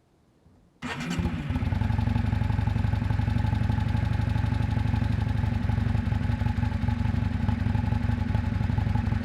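1998 Yamaha Drag Star 400 Classic's V-twin engine running through its exhaust, coming in suddenly about a second in and then holding steady.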